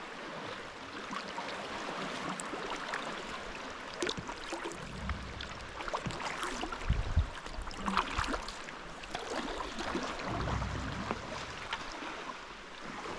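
Sea water splashing and lapping around a kayak as it is paddled, a steady wash with many small splashes. A few short low rumbles come through about five, seven and ten seconds in.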